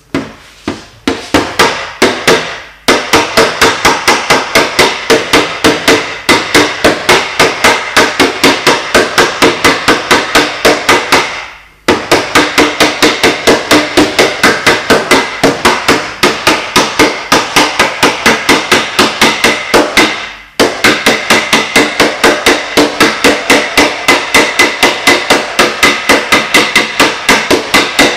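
Paintless dent repair knockdown tool tapping rapidly and steadily on a car body panel, about four or five taps a second, flattening high spots as the dent is blended out. The tapping runs in long stretches with brief breaks about 3, 12 and 20 seconds in.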